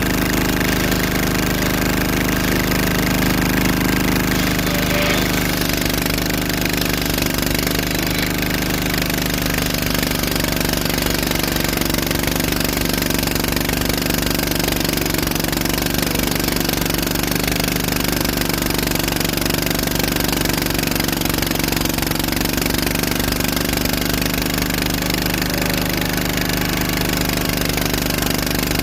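An engine running steadily at constant speed with a rapid rattling pulse, keeping the same pitch throughout.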